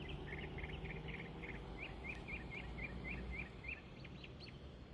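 A songbird singing a series of short high chirps: a quick run of notes, then slower rising notes about three a second that stop a little before the middle of the second half, over a low steady outdoor rumble.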